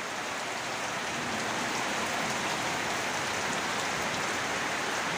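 Heavy rain pouring down steadily: a dense, even hiss of rain.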